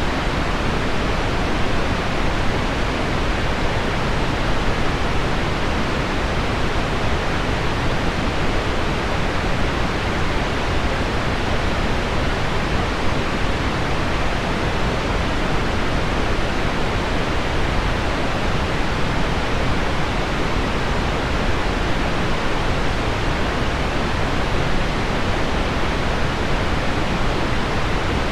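Continuous pink noise mixed with heavy rain on window glass: a steady hiss weighted toward the low end, with no separate drops or changes standing out.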